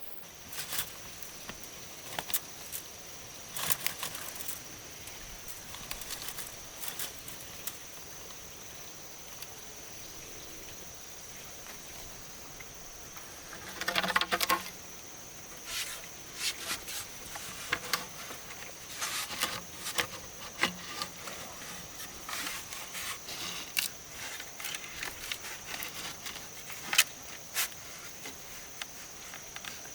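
Irregular light clicks and taps, with a quick rattling cluster about halfway through, over a steady high-pitched insect drone.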